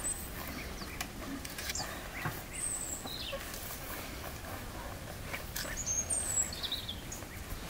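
Small birds chirping now and then: a handful of short, high chirps and quick sliding calls over a steady outdoor hiss, with a few faint clicks.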